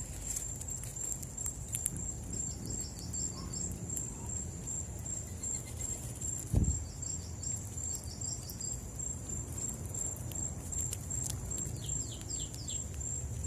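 Crickets chirring in a steady high pulse throughout, with a short bird trill of quick repeated notes three times. There is one low thump a little past the middle.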